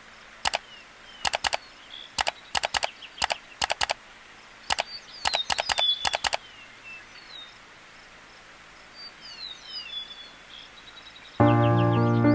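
Birds chirping over a faint outdoor hiss, with a run of sharp clicks in pairs and triples over the first six seconds. A piano starts about a second before the end.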